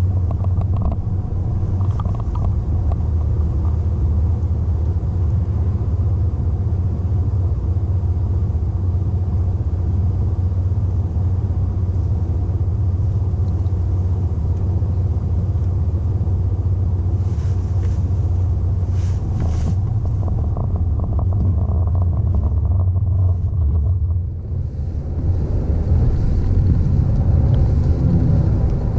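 Car driving: a steady low rumble of engine and tyres on the road, which dips briefly about 24 seconds in and then carries on.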